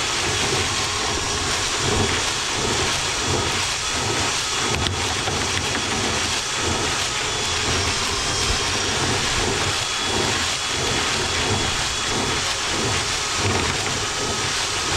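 Power drill spinning a rotary cleaning brush inside a lint-clogged dryer vent duct: a steady, loud rumbling and scraping noise.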